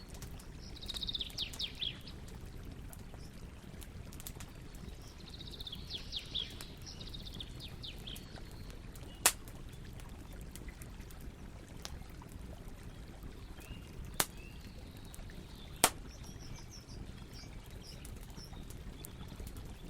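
Campfire burning with a steady low rumble and three sharp crackling pops, one midway and two close together later on. A bird sings rapid high trills twice in the first third.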